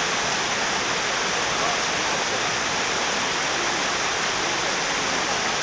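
Water pouring over a small dam's waterfall in a steady, even rush.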